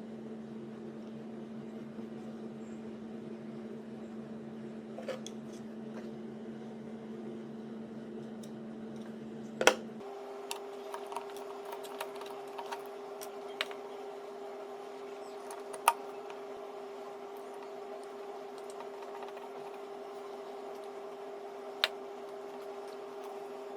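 Steady hum from the ventilation system under the dash of a 2009 Kia Sportage, its pitch stepping up about ten seconds in, with scattered sharp clicks and knocks over it. The loudest knocks come near ten seconds and twice later.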